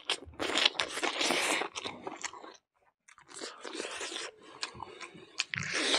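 A person chewing and crunching a mouthful of rice, beans and pork tail eaten by hand, with a short pause about halfway through.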